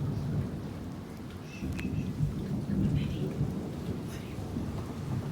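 Thunder rumbling low and rolling over steady heavy rain. The rumble eases about a second in and swells again near two seconds.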